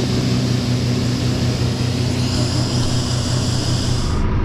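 Tractor engine running steadily under load, a low, even drone heard from inside the cab; a high hiss over it cuts off suddenly near the end.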